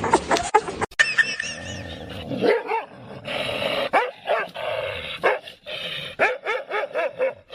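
A dog barking in quick short barks, several a second.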